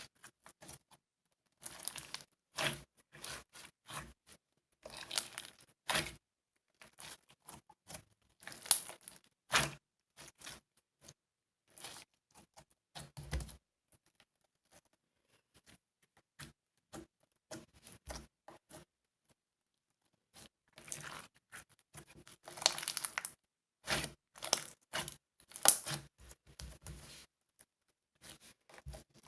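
Irregular handling noises: short bouts of rustling, crinkling and tearing, like paper or packaging being worked by hand, with quiet gaps between, busiest near the start and again near the end.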